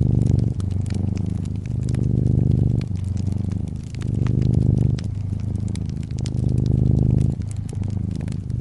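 A brown tabby cat purring close up, the purr swelling and easing with each breath about every second and a half. Fireplace crackling, with a scatter of small sharp pops over it.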